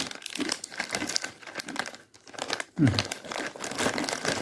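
Plastic snack wrapper crinkling and rustling as it is handled. A brief falling voice sound comes about three seconds in.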